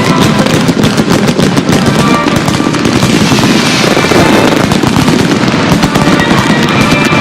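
Fireworks display with rapid crackling and popping bursts, a hissing crackle swelling about halfway through, over loud music played with the show.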